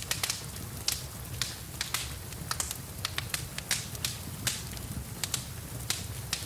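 Wood fire in a fireplace crackling, with irregular sharp pops several times a second. Under it runs a steady low rumble and hiss of rain.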